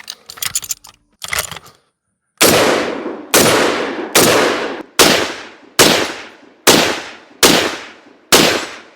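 A few short metallic clicks of rifle handling, then eight semi-automatic rifle shots, evenly paced a little under a second apart: a full eight-round clip, typical of an M1 Garand. After the last shot the clip's ping is buried under dirt raining down from the backstop.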